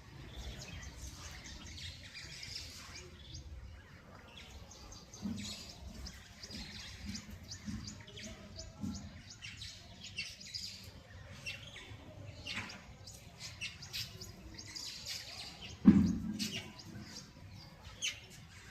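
Many birds chirping in quick, short, high notes as they feed on swarming termites, with one loud thump near the end.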